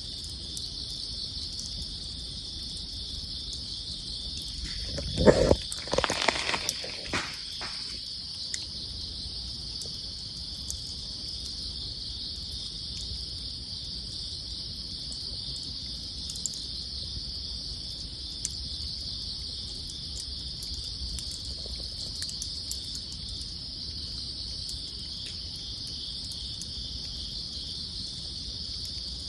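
A steady chorus of crickets chirring, with a few faint crackles from a campfire. About five seconds in comes a short cluster of louder knocks and rustling.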